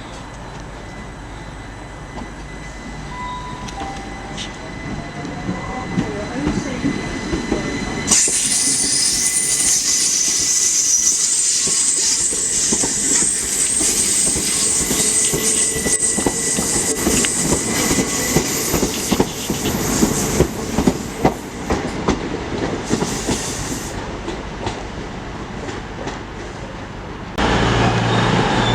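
A train running past on the platform line, building up and then, from about eight seconds in, loud with a high hiss and squeal from the wheels and rapid clattering over the rail joints, which eases off after about fourteen seconds.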